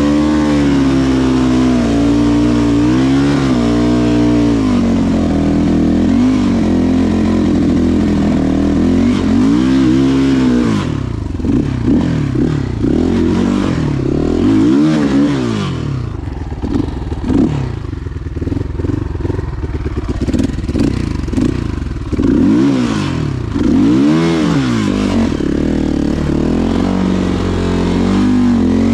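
Motorcycle engine running under changing throttle, its pitch rising and falling over and over; from about eleven seconds in it turns uneven, with quick repeated swoops up and down.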